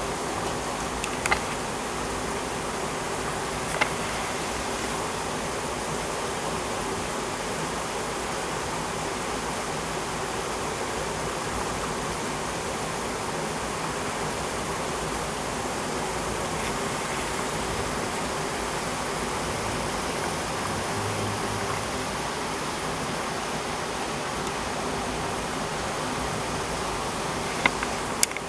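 Heavy rain pouring down steadily as a dense, even hiss, with a few sharp ticks: one about a second in, one near four seconds, and two near the end.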